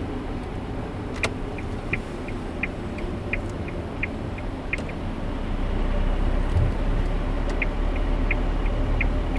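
A car's interior road and engine noise while driving, with the turn-signal indicator ticking about three times a second, alternating stronger and weaker clicks. The ticking stops a little before the middle and starts again with the engine and road noise louder.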